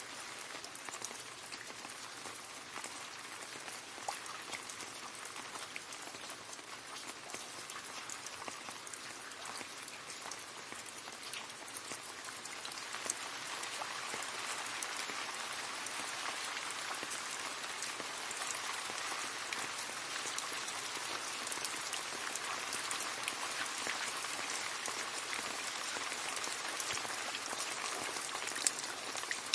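Rain falling steadily into a puddle, a dense patter of drops splashing on water, growing somewhat heavier about halfway through.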